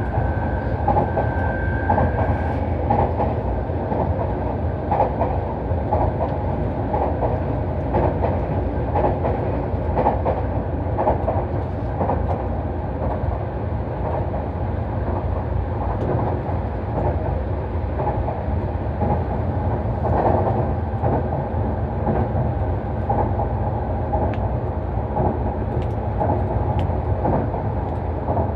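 Nankai Main Line express electric train running at speed, heard from inside the carriage: a steady rumble of wheels on rail with a regular clickety-clack of rail joints. A faint high whine in the first couple of seconds fades away.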